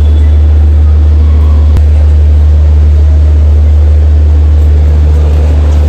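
A loud, steady low droning rumble that holds unchanged, with faint general noise above it and a single sharp click about two seconds in.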